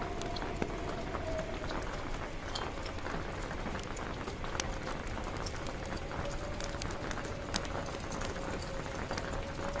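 Steady rain falling on a tent, with many separate sharp drop hits. A howling wind runs over it as one wavering tone that sinks slowly in pitch, then rises again near the end.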